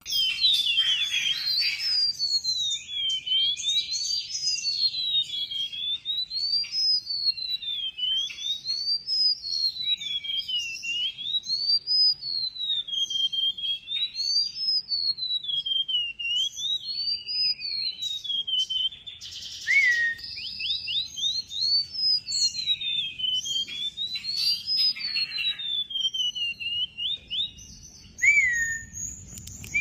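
Golden-bellied gerygone singing vigorously: a thin, high whistle that slides smoothly up and down, a rise and fall every two to three seconds, over a stream of short chirps. It pauses briefly twice, each time with a short falling note.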